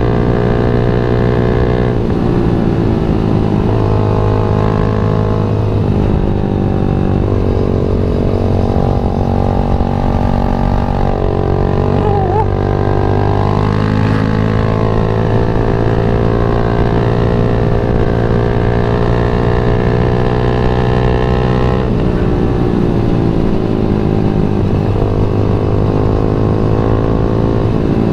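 Yamaha MX King 150 single-cylinder four-stroke motorcycle engine running under way, its note dropping and climbing again a few times as throttle and gears change, with a long steady pull through the middle.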